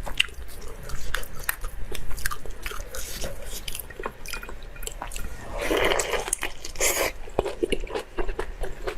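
Close-miked mouth eating sounds: wet chewing and biting with frequent sharp smacking clicks, and a louder, wetter stretch of chewing about six seconds in.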